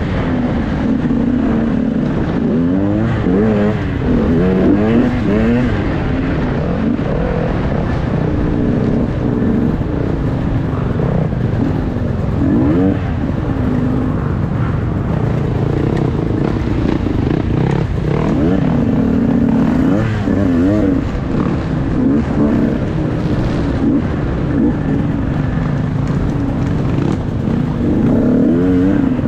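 Dirt bike engine being ridden off-road, the revs rising and falling over and over as the throttle opens and closes.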